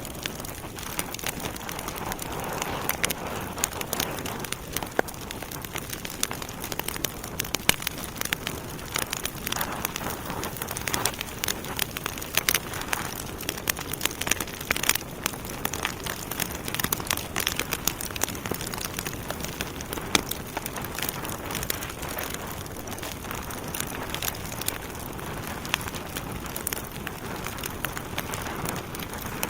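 Wood fire in a fireplace crackling and popping, with a steady hiss of burning logs under many irregular sharp snaps.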